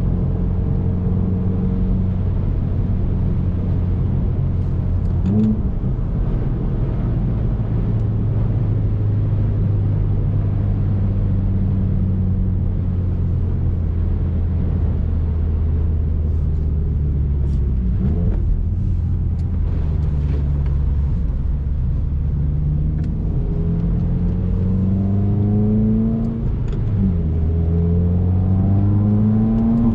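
2019 Subaru WRX's turbocharged flat-four engine under way, its note holding steady for a long stretch, then dropping abruptly at a gear change. In the last several seconds the pitch climbs under acceleration, falls at another shift and climbs again.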